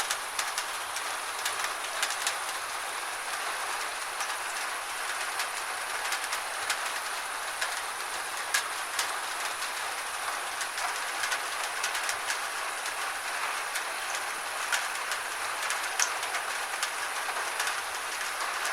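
Steady gentle rain falling, with irregular sharp ticks of single drops hitting a surface.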